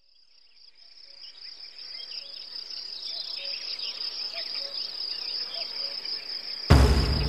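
Evening crickets chirring in a steady high trill that fades in from silence, with scattered bird chirps. Loud music starts suddenly near the end.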